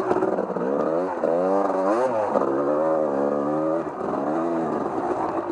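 Off-road vehicle engine being ridden, its pitch rising about a second in, holding with small rises and falls, then dropping back near the end as the throttle comes off.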